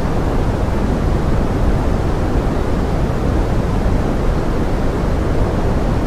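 Steady pink noise standing in for forest rain: an even, unbroken hiss with most of its weight in the low end and little at the top.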